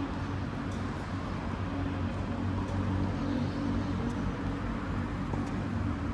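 A steady low mechanical hum with a few faint, scattered clicks.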